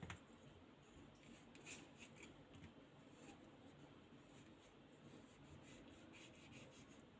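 Near silence with faint scrapes and scattered light taps of a knife cutting produce.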